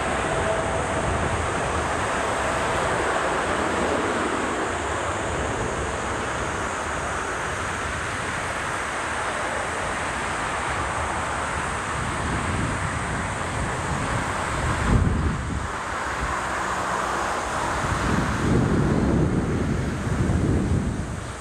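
Steady roar of a jet airliner's engines, overlaid by strong wind buffeting the microphone in heavy low gusts, hardest about two-thirds of the way through and near the end.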